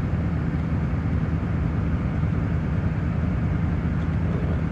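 2005 Duramax LLY 6.6-litre V8 turbodiesel running steadily at high idle, still warming up after a cold start.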